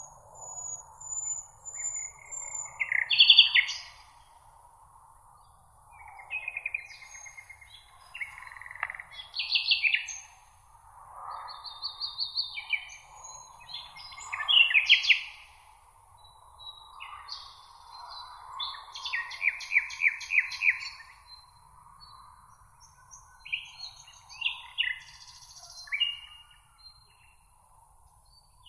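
Songbirds singing in a meadow: a run of short, varied warbling and trilled phrases, one after another every second or two, over a steady faint background hiss.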